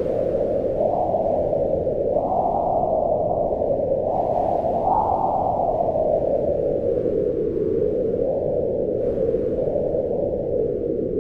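Howling wind: a steady rush with a hollow tone that slowly rises and falls in pitch, swelling higher about two seconds in and again about five seconds in.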